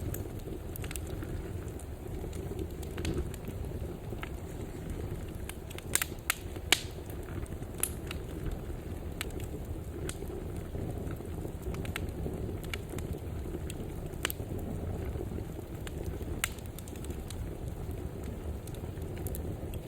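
Wood fire burning in a fireplace: a steady low rumble of flames with scattered sharp crackles and pops, the loudest pops about six and seven seconds in.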